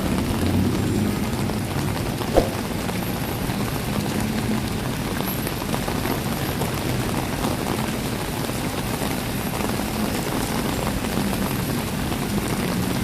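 Steady rain falling, with a low rumble of traffic beneath it and a single sharp knock about two and a half seconds in.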